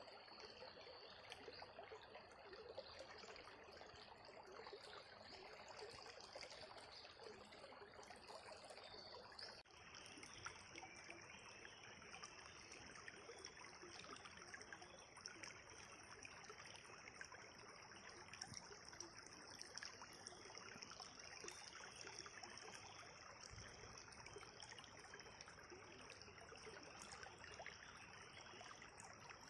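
A river flowing: a faint, steady rush of running water, with an abrupt shift in its tone about ten seconds in.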